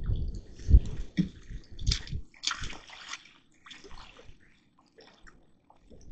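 Irregular splashing and sloshing of water with a few dull knocks, loudest in the first three seconds, then dying down to faint scattered drips.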